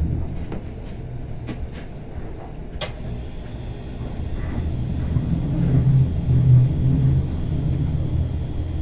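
Bernina Express train running, heard from inside the carriage as a steady low rumble, with a single sharp click about three seconds in.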